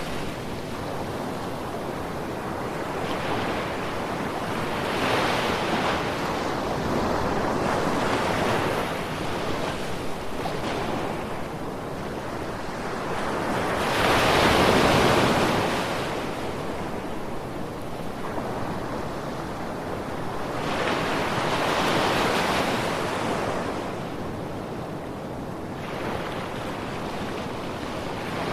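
Ocean waves washing onto a beach, a steady hiss of surf that swells and falls back every few seconds, with one stronger wave about halfway through.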